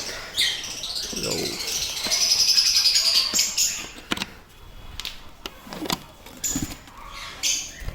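African lovebirds chattering and screeching in shrill, buzzy calls, strongest in the first three seconds and again near the end, with scattered light clicks and knocks in between.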